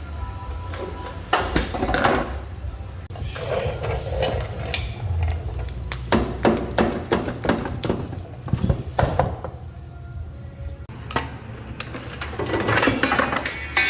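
Metal tools and truck suspension parts clanking and knocking in a workshop, with a quick run of sharp metallic strikes in the middle, over a steady low hum.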